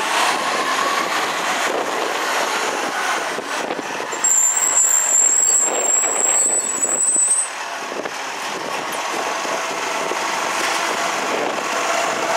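MacDonald Johnston Gen V side-loader garbage truck running, with a loud high-pitched whine that starts about four seconds in and lasts about three seconds.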